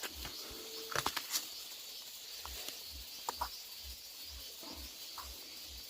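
Quiet outdoor ambience: a steady high hiss with a low pulse about three times a second, broken by a few sharp clicks about a second in and again a little past three seconds.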